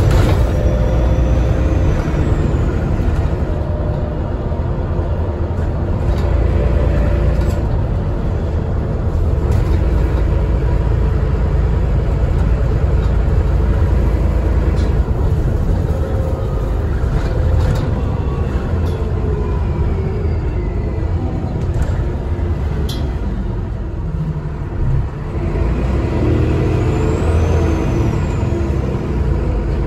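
ALX400 double-decker bus running on the road, heard from on board: a steady low engine and road rumble, with a high turbo whistle that rises and falls a couple of seconds before the end.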